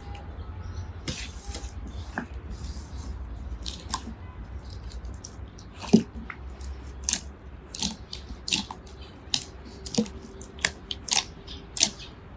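Slime being squeezed and poked, giving irregular crisp clicks and pops that come louder and closer together in the second half, over a low steady hum.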